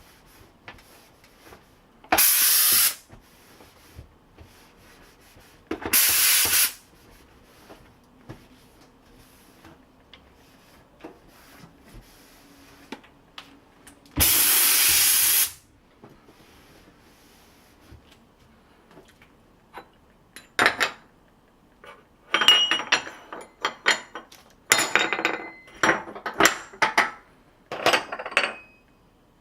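Kärcher SC1 handheld steam cleaner firing three short, loud jets of steam, the third the longest. Near the end comes a run of irregular knocks and scrapes.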